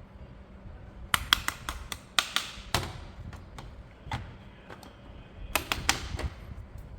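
Sharp clicks and taps of hard plastic in quick clusters, from a plastic RC toy vehicle and its packaging being handled: a run of clicks about a second in, a single one midway, and another run near the end.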